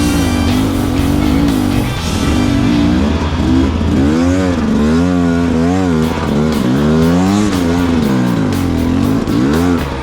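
Dirt bike engine revving up and down again and again as the rider works the throttle and clutch over rocks. Background music plays along with it.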